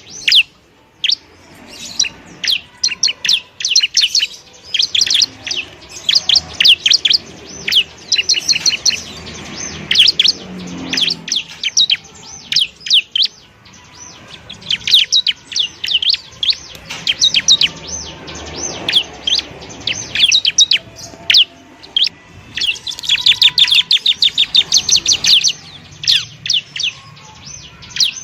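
Bar-winged prinia (ciblek) singing: rapid trains of sharp, high chirps delivered in bursts with short pauses between them.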